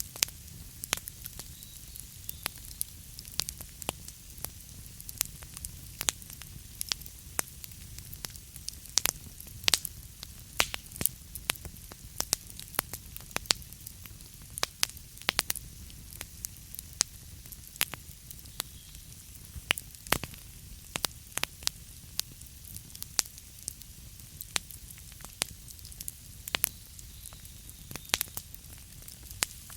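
Wood fire burning in a fireplace: logs crackling with irregular sharp pops, some louder than others, over a steady low rumble of the flames.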